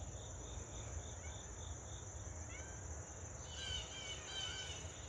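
Insects calling outdoors: a steady high trill and an even chirping about three times a second. A few short bird calls twitter in about halfway through.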